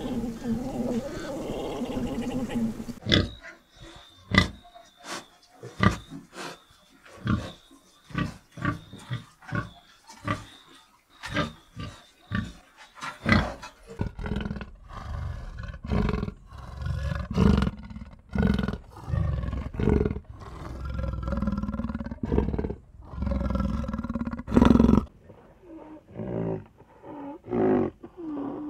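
Big cat roaring and grunting in a run of short calls, about one a second, heavier and deeper from the middle on. The first few seconds hold a denser, steadier animal noise before the calls begin.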